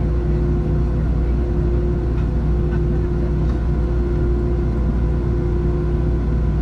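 Steady drone inside the cabin of a Boeing 737-700: the low rumble of its CFM56-7B turbofan engines and rushing air, with a constant hum tone and no change in pitch or level.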